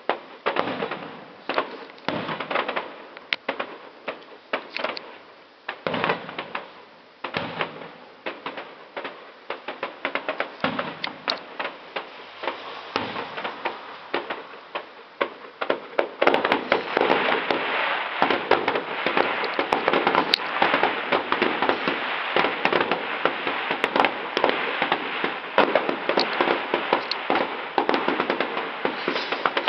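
Fireworks display: a run of separate sharp bangs, thickening a little over halfway in into a louder, dense, continuous crackling barrage of many shells going off at once.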